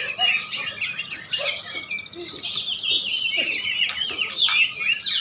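Many caged contest songbirds singing at once: a dense chorus of overlapping chirps and quick sweeping whistles.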